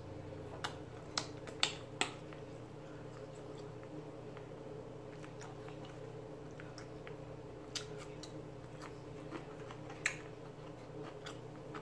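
A person eating at close range: sparse soft clicks and smacks of chewing meat, a few of them sharper, over a faint steady hum.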